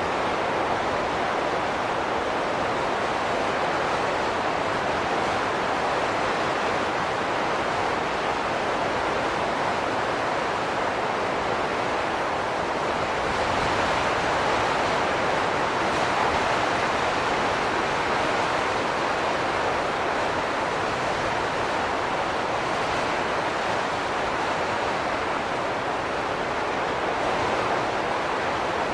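Steady wind noise rushing, swelling slightly and easing again about midway, with no distinct gusts or other sounds.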